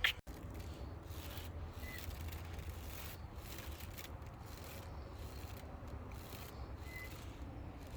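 Faint, steady rubbing and rustling noise over a low hum, with two brief, faint high chirps, one about two seconds in and one near the end.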